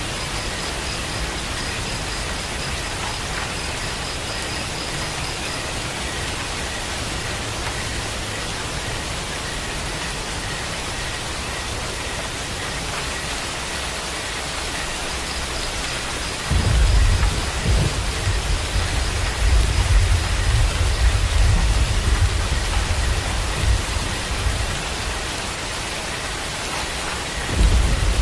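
Steady rain falling, an even hiss. A low rumble of thunder sets in suddenly about two-thirds of the way through, lasts several seconds, and starts again near the end.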